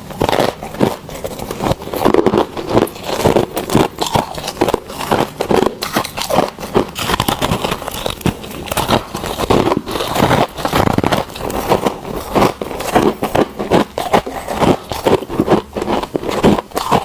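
Freezer frost and ice being bitten and chewed close to the microphone: a steady run of crisp, crackling crunches, several a second.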